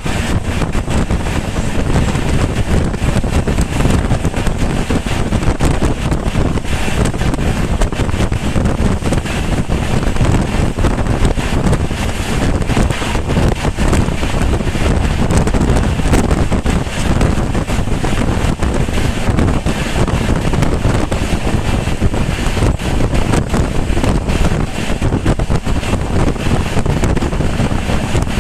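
Moving passenger train heard with heavy wind rushing over the microphone: a steady, loud rumble without a break.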